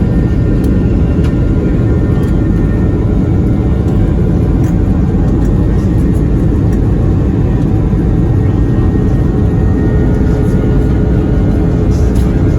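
Passenger jet airliner heard from inside the cabin: a steady, loud rumble of engine and airflow noise with faint steady tones over it.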